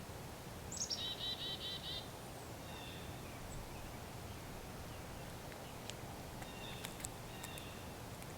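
Wild bird calling: a quick run of about seven high, evenly repeated notes about a second in, then a few fainter short calls, over a steady outdoor background hiss with a few sharp clicks.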